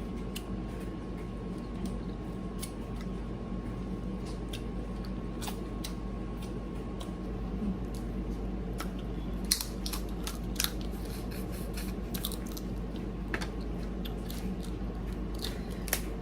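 Someone eating seafood: scattered clicks, crunches and chewing noises over a steady low hum, with a small cluster of crunches a little past halfway.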